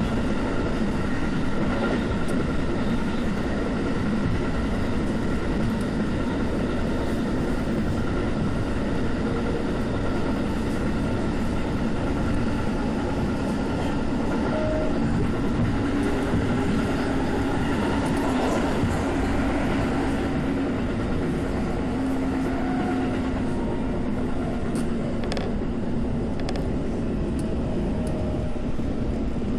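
Keikyu commuter train running at speed, heard from inside the car: a steady rumble of wheels on the rails with a steady hum over it.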